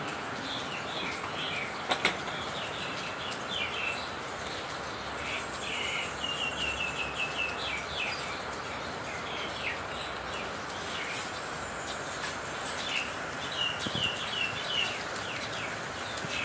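Steady rain falling, with a bird calling in several short runs of quick repeated chirps, and one sharp click about two seconds in.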